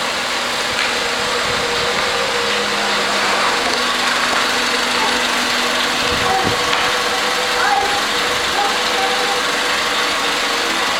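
Honda Civic's four-cylinder engine idling steadily.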